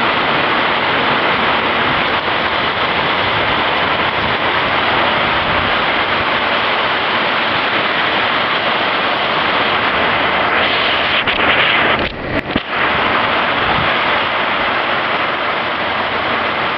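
Heavy downpour of rain mixed with hail, a dense steady hiss that briefly drops in level about twelve seconds in.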